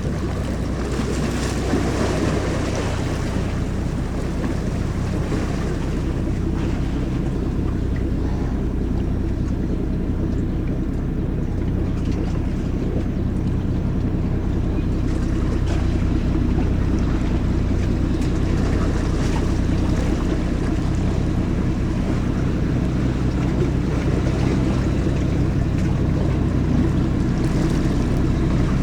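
Ferry's engines running steadily, a low even drone with several steady tones, over a hiss of wind and water.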